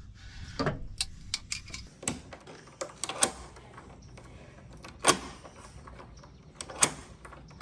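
Irregular clicks and knocks of tools and lock hardware being handled, about a dozen, with a few louder ones spread through.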